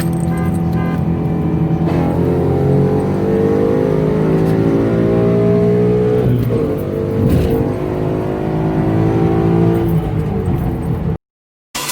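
Car engine under hard acceleration: steady for about two seconds, then its pitch climbs, drops back about six and a half seconds in as if on a gear change, and climbs again. The sound cuts off suddenly near the end.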